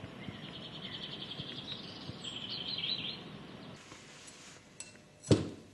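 Wild bird song outdoors: quick chirps and a fast trill for the first three seconds or so. Near the end, a single sharp knock.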